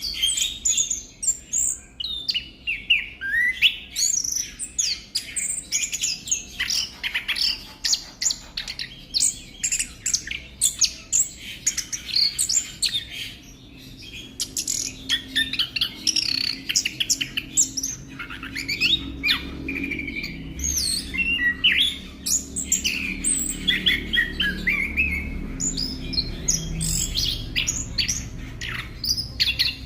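Chestnut-capped thrush (anis kembang) singing a fast, unbroken run of varied chirps, trills and whistled glides. A low background rumble grows in from about halfway through.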